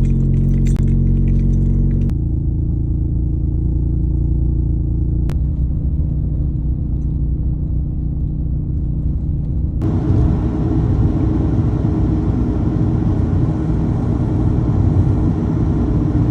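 An engine running steadily, with a low, even hum whose note and noise change abruptly about two, five and ten seconds in, growing rougher and noisier after the last change.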